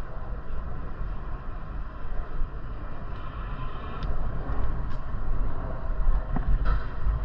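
Wind rushing over the microphone, with rumbling road noise from riding a bicycle and a few faint clicks.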